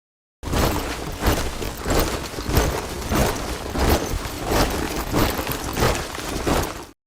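Soldiers' boots marching in step on hard ground, a crunching stamp of many feet together about three times every two seconds. It starts about half a second in and cuts off abruptly just before the end.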